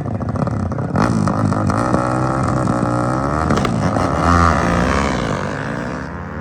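Motorcycle engines revving, several at once, their pitch rising and falling.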